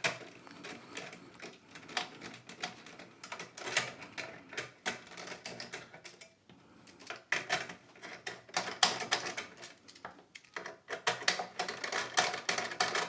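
Rapid, irregular clicking and clattering of small metal parts, screws and a screwdriver being handled while a power supply module is taken apart, with a brief lull about halfway through.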